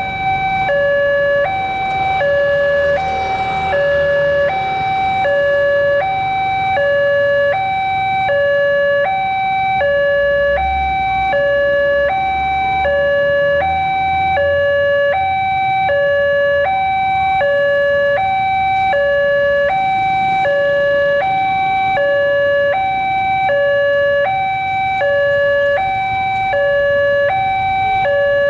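Railway level-crossing warning alarm sounding a steady two-tone signal, alternating high and low about once a second, which signals that a train is approaching and the crossing is closing.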